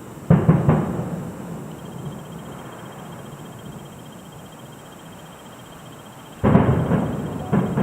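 Distant fireworks shells bursting, heard as booms that rumble and echo away. Two quick booms come just after the start and fade over a couple of seconds. A louder burst comes about six and a half seconds in, with another crack just before the end.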